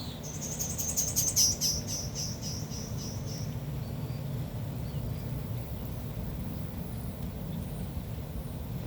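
A bird sings a short trill of rapid high chirps that slides down slightly in pitch and fades out after about three seconds. A steady low hum runs underneath.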